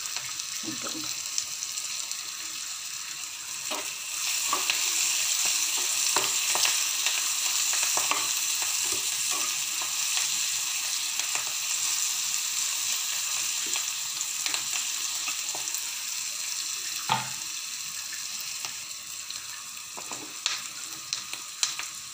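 Chopped onions, green chillies and curry leaves sizzling in hot oil in a pan, with a metal spatula scraping and knocking against the pan as they are stirred. The sizzle grows louder about four seconds in.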